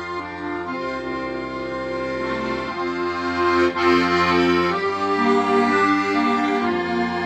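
Accordion playing a slow melody over held chords and bass notes, the bass changing every two seconds or so.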